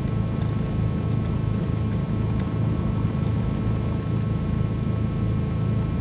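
Twin piston engines of a Cessna 310Q running steadily, heard from inside the cockpit as a low, even drone with a slight pulse.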